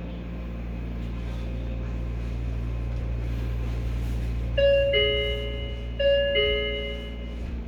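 The train's on-board two-note chime sounds twice, a higher tone stepping down to a lower one like a ding-dong, over the steady low rumble of the 03 series electric train running.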